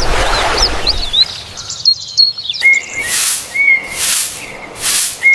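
Birds chirping in outdoor ambience. About halfway through, a regular pattern starts, roughly once a second: a short whistled note followed by a swelling hiss.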